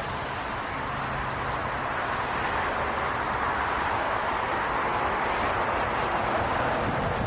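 A jet airliner's engines: a steady rushing roar that swells gently through the middle, with gusty wind buffeting the microphone underneath.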